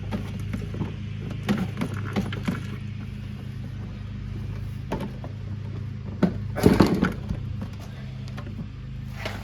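Plastic parts of a portable washing machine being handled and taken apart: scattered clicks and knocks, with a louder clatter about six and a half to seven seconds in, over a steady low hum.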